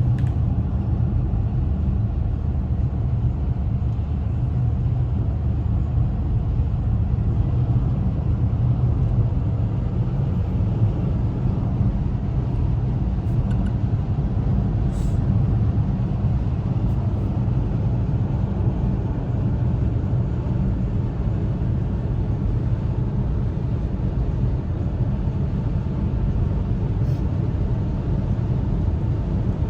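Steady engine and road noise of a car on the move, heard from inside the cabin: a constant low rumble.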